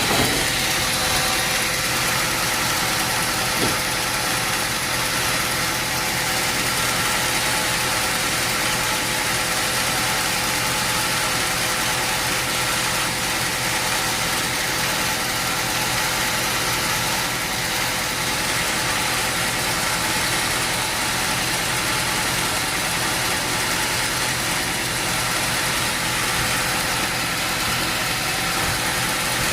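Sawmill engine running steadily with a constant hum, holding the same pitch throughout with no sign of load changing.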